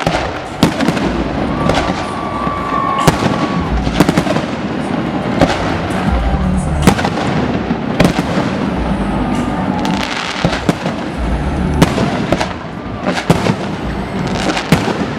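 Fireworks display with shells bursting in quick succession: a sharp bang about every second, smaller cracks in between, over deep booms and crackle.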